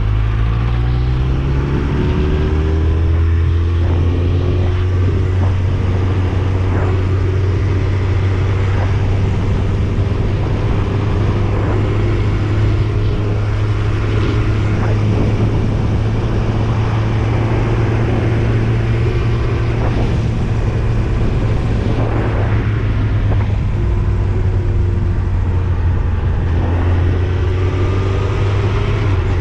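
Yamaha YZF-R1's inline-four engine running steadily under way, its pitch drifting only slightly up and down, with wind rushing over the microphone.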